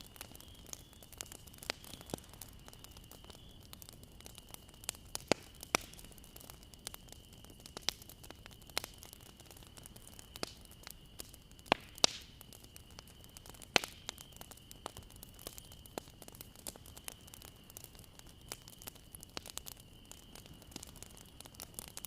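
Bonfire burning with irregular sharp crackles and pops over a soft hiss, a few pops louder than the rest. A faint steady high-pitched whine sits underneath.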